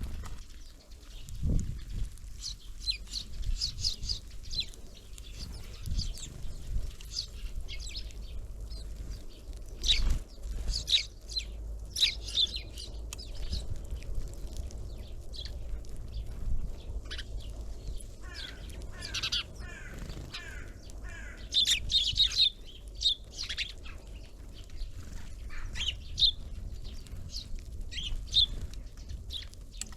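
Small winter birds at a feeder, calling with many short high chirps throughout and a run of falling notes a little past the middle, with a few knocks now and then.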